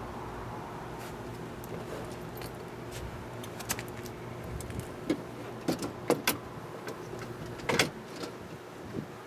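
Metal clinks and knocks as a window regulator is handled inside a car door, about half a dozen sharp strikes in the second half, over a steady low hum that stops near the end.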